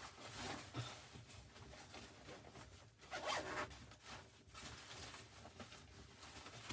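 A zipper being pulled in several short strokes, the loudest about three seconds in.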